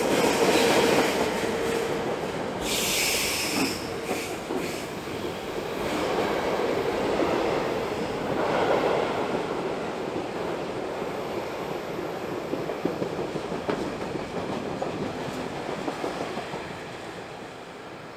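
Freight train of mixed goods wagons rolling past on a curve: a steady rumble of wheels on rail, with a high squeal of wheels on the curve about three seconds in.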